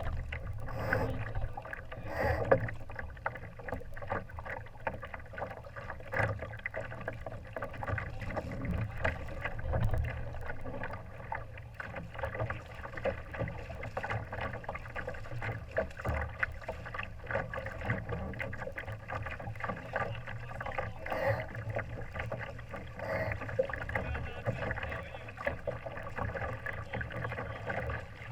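Water splashing and slapping against the hull of a Laser sailing dinghy under way, a steady wash of small irregular splashes over a low rumble.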